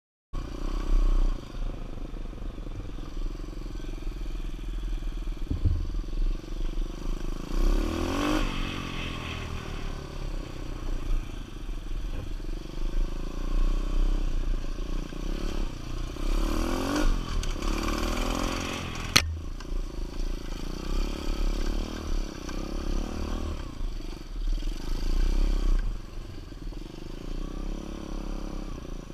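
125cc dirt bike engine running under way, the revs rising and falling as it is ridden, with two strong rev-ups. A single sharp click about two-thirds of the way through.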